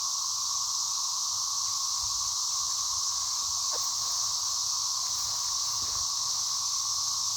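A chorus of 13-year periodical cicadas in the trees, a steady, unbroken drone with a strong high-pitched whine and a lower hum beneath it.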